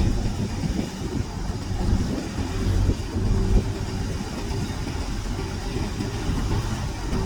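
Heavy earthmoving machinery's diesel engine running with a continuous low rumble; a faint steady hum joins about three seconds in.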